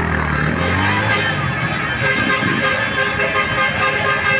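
Motorcycle engines running in a passing parade, one falling in pitch in the first second, then vehicle horns sounding steadily from about two seconds in.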